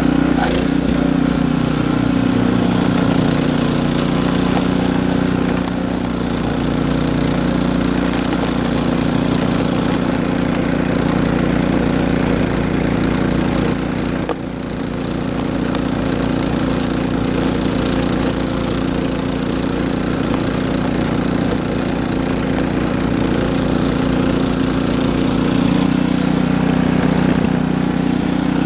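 Snowblower engine running steadily under load, with a brief dip in level about halfway through.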